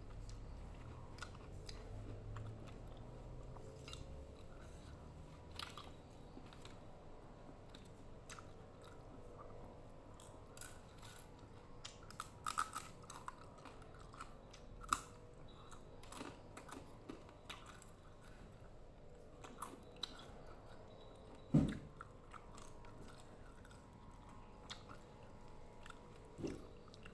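Close-up chewing and crunching of rujak: cucumber, raw vegetables and lontong in sambal, with scattered short crunches and mouth clicks. There is a louder dull knock about two-thirds of the way through and another near the end.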